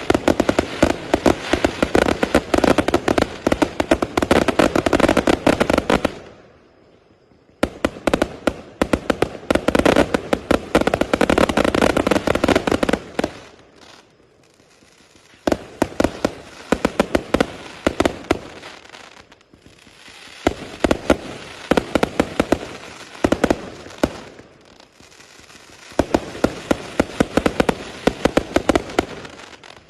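Rajawali 1000-shot, 0.8-inch firework cake firing in rapid volleys of many sharp shots a second. The firing breaks off briefly twice, about a fifth and about half of the way through, and the later runs are more spaced out.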